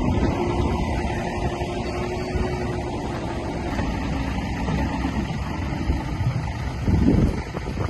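Heavy diesel earthmoving machinery running steadily under load, with a brief louder surge about seven seconds in.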